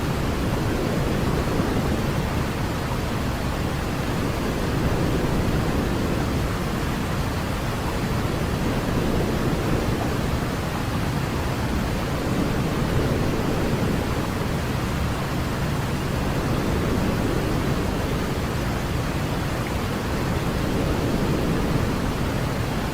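Steady noise for helping a baby sleep, a continuous hiss weighted toward the low end, like pink noise, with no change or events.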